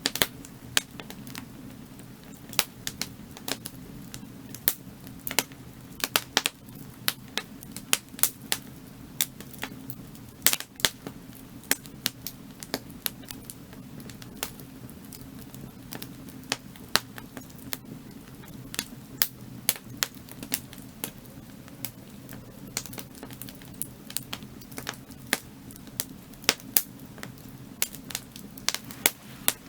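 Burning firewood crackling: irregular sharp pops and snaps, several a second, some louder than others, over a steady low rumble.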